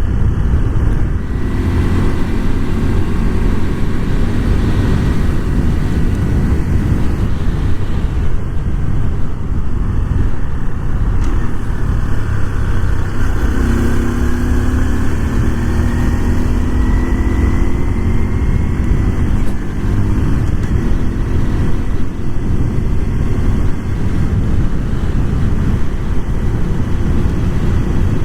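Honda Super Cub 125's small air-cooled single-cylinder four-stroke engine running under way, with a steady low rumble. A rising whine comes in about halfway through as the bike picks up speed.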